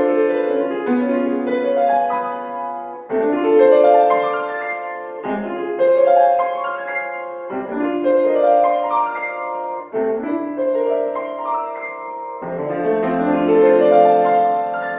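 Piano playing a classical piece, in phrases that start afresh every two to three seconds.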